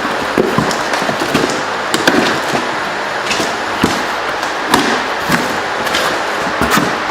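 A shipping package being opened by hand: steady rustling of cardboard and packing, with scattered light knocks and clicks.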